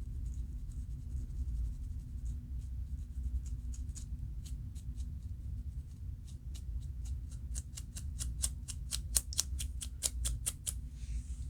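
Scratching at the scalp to loosen dandruff flakes: short, crisp scraping strokes, sparse at first, then a fast run of about five strokes a second in the second half that stops shortly before the end.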